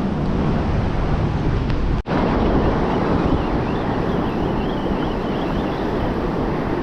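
Wind buffeting the microphone over the steady wash of ocean surf on the beach; the sound cuts out for an instant about two seconds in.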